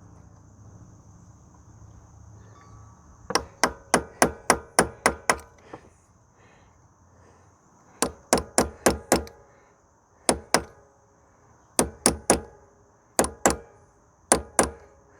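Hammer driving a steel punch, about two dozen sharp, ringing metallic blows in quick bursts of two to eight, bending flat the ears of the lock tab on the front sprocket nut of a 1990 Suzuki LT250S ATV.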